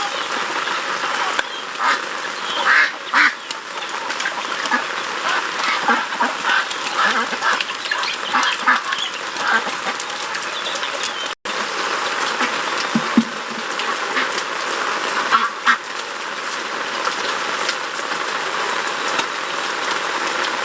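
Ducks quacking in a flock, with repeated short calls, over a steady hiss.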